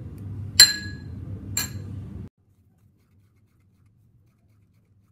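Two light clinks about a second apart, a utensil striking a bowl, over a low steady hum; the sound cuts off suddenly a little over two seconds in.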